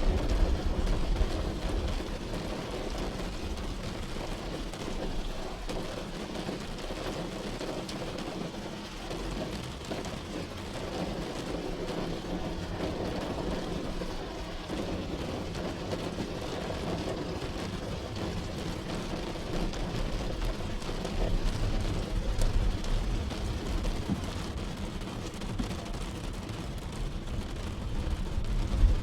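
Rain falling on a car, heard from inside, over the low rumble of the car on the road; the rumble is louder near the start and swells again at the end.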